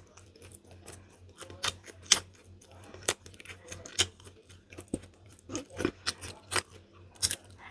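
A person chewing food close to the microphone: irregular wet mouth clicks and lip smacks.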